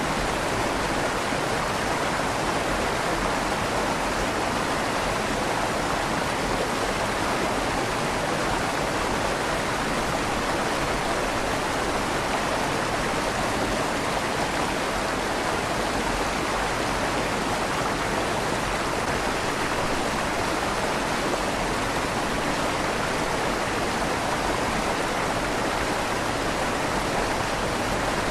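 River water flowing steadily under a stone bridge, its rushing lightly echoing off the walls of the tunnel beneath.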